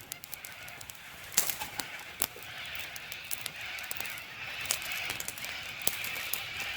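Campfire crackling, with irregular sharp pops and snaps, the loudest about a second and a half in and again just past two seconds, over a steady high background hiss.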